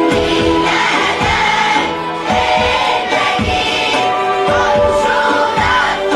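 Church choir singing a Christmas hymn medley in sustained, layered voices, over a steady low beat.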